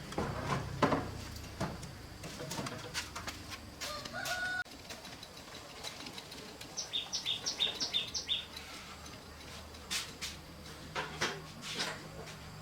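A bird calls a quick run of about six high chirps a little past the middle, among scattered clicks and knocks near the start and again near the end.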